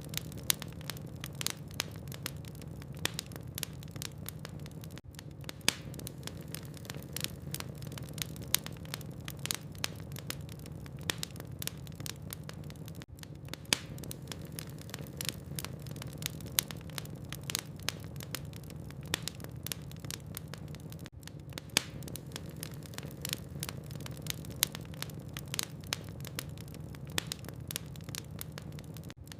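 Logs burning in a fireplace, crackling with many sharp pops and snaps over a steady low hum.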